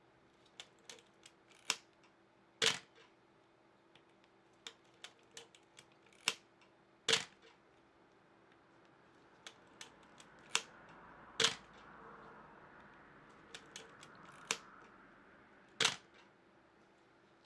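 Pentax Spotmatic film SLR's mechanical focal-plane shutter and mirror firing about four times, each a sharp clack. Between releases come lighter ticks and clicks from the film advance lever being wound to re-cock the shutter.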